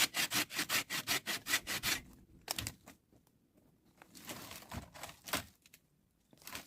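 Wood being sawn by hand, quick even strokes about five a second that stop about two seconds in. A few scattered knocks and rustles follow.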